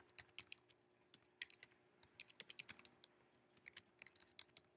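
Faint typing on a computer keyboard: irregular keystrokes, some in quick runs, with a pause of about half a second near the middle.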